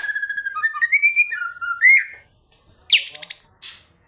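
A songbird singing a varied phrase of clear whistled notes that shift up and down in pitch, with a rising whistle about two seconds in. After a short pause, about three seconds in, it gives a harsh buzzing note broken by rapid clicks.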